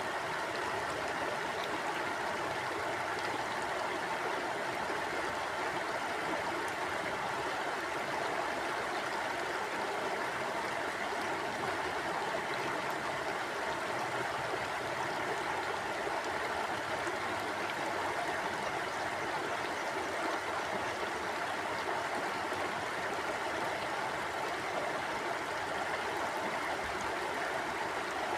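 Shallow stream flowing steadily, an even rushing of water with faint gurgling.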